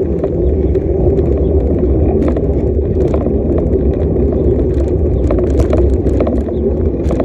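Steady low rumble of a bicycle rolling along a road, with wind buffeting the microphone and scattered light clicks and rattles.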